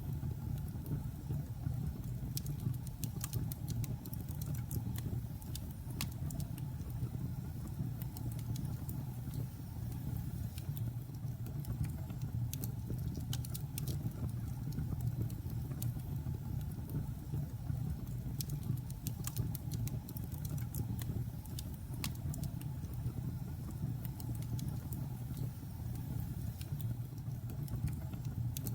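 Logs burning in a fireplace: a steady low rumble of the fire with scattered sharp crackles and pops.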